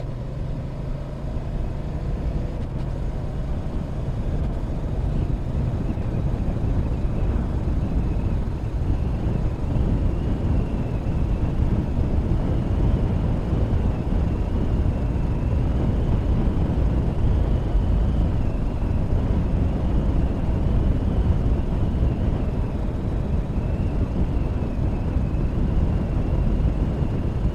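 Motorcycle ride at road speed: wind rushing over the microphone together with engine and road noise, growing louder over the first few seconds as the bike picks up speed and then holding steady.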